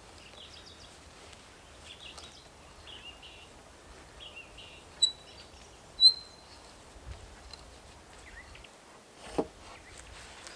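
Small birds chirping sparsely over a quiet outdoor background, with two sharp high chirps about five and six seconds in and a dull knock near the end.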